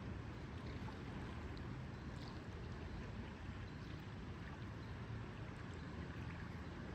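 Lakeside ambience: water moving gently against the shore under a steady low rumble of wind, with a few faint ticks higher up.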